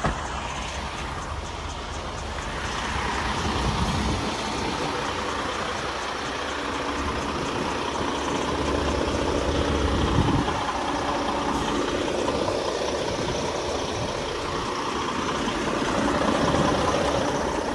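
Heavy truck's diesel engine idling, a steady rumble with slight swells in loudness.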